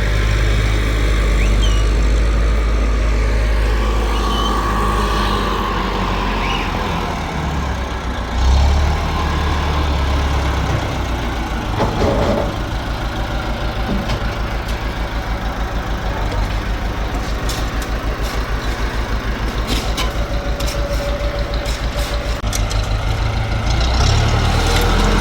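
Tractor engine running steadily under a load, a low continuous drone that settles into an even, rapid pulsing from about nine seconds in, with scattered sharp knocks near the end.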